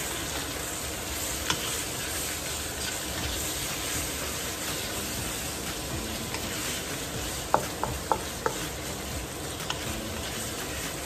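Diced pork, onions and garlic sizzling as they are sautéed in a wok, stirred and scraped with a wooden spatula. A single sharp click comes early, and a quick run of sharp clicks about two-thirds of the way through.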